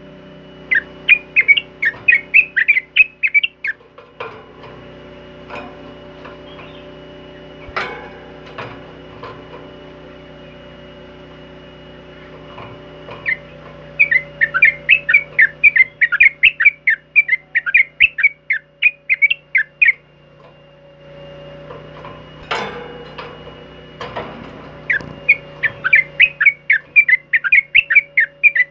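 Trucukan kebo, a yellow-vented bulbul, singing in three long runs of quick, bright repeated notes, about five a second, with pauses between. A faint steady hum runs underneath, and a couple of sharp clicks fall in the pauses.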